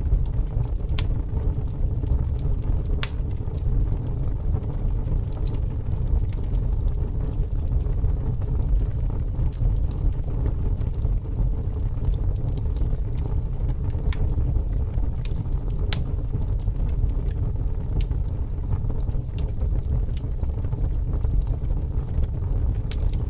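A fire burning: a steady low rumble with about a dozen sharp crackles and pops scattered irregularly through it.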